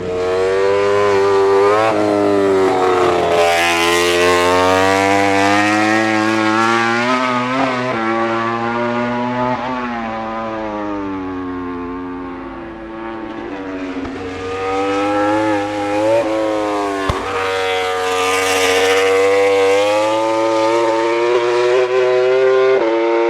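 MotoGP race motorcycles at full speed on track, engines at high revs. The pitch climbs and drops sharply at each gear change. Two bikes pass close, one near the start and one about two-thirds through, with the sound fading between them.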